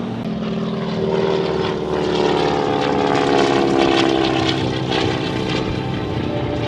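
Aircraft flying past overhead, its steady engine drone falling slowly in pitch as it goes by.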